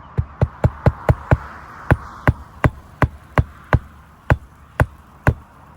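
Hand hammer striking a roofing nail into a replacement asphalt shingle: about fifteen sharp strikes, quick at first (about four a second), then steadier at roughly two to three a second.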